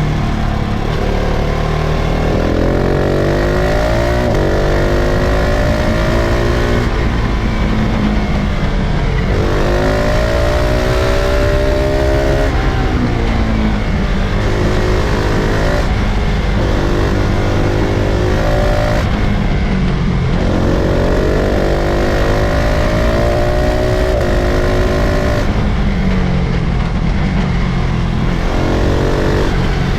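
KTM 690 SMC-R supermoto's single-cylinder engine accelerating hard. Its pitch climbs again and again, each climb breaking off at a gear change or when the throttle is shut, about eight times.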